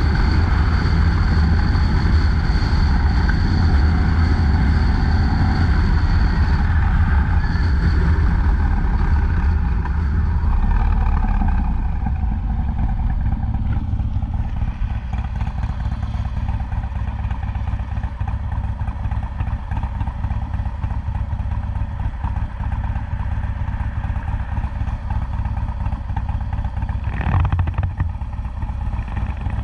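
Harley-Davidson FXDLS Low Rider S's Twin Cam V-twin running under way, then easing off about ten to twelve seconds in and settling to a steady, quieter idle with the bike stopped. A brief louder burst comes near the end.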